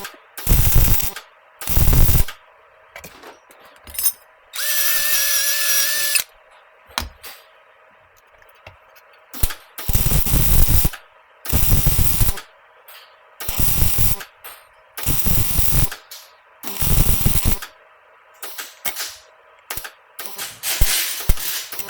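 Arc welder laying short bursts of weld on a thin, corroded stainless motorcycle exhaust pipe: about eight separate crackling runs of a second or so each, with pauses between them, as the thin wall is built up a little at a time to keep from blowing through. About five seconds in there is a steadier buzz lasting a second and a half.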